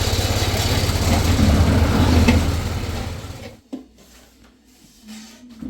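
Small engine running with an even, fast pulsing beat, then cutting off suddenly about three and a half seconds in, leaving a few light knocks.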